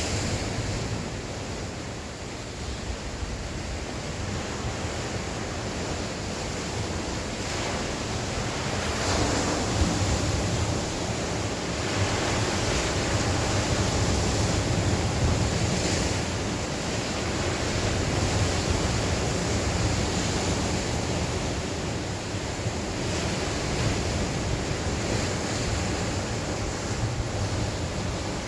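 Mediterranean sea waves breaking and washing on the shore in a steady wash that swells and ebbs, with wind buffeting the microphone.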